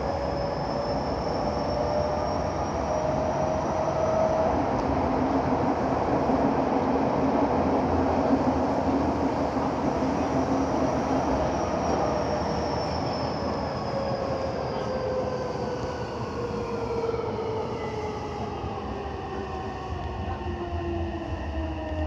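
Subway train running through a tunnel, heard from inside the car: steady wheel and track rumble with the traction motors' whine. The whine rises a little early on, holds, then falls steadily in pitch through the second half as the train brakes for its next stop.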